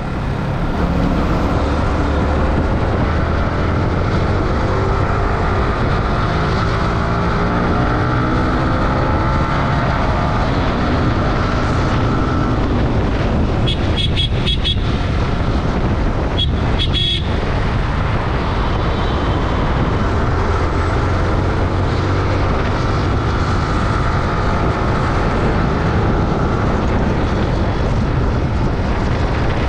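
Superbike engine running under way, rising in pitch as it accelerates, over steady wind and road noise. A horn sounds twice, briefly, about halfway through.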